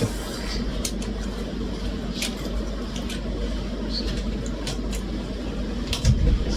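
Eating sounds: scattered short clicks and smacks of chewing and utensils over a steady low hum, with a louder low bump about six seconds in.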